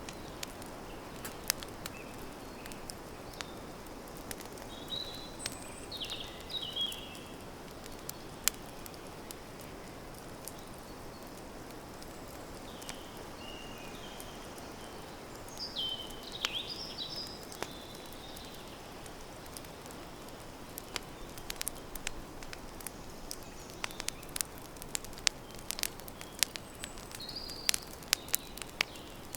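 Campfire crackling, with sharp pops that come thicker toward the end over a steady low hiss of the burning wood. Short high bird chirps come in now and then, a few seconds in, in the middle and near the end.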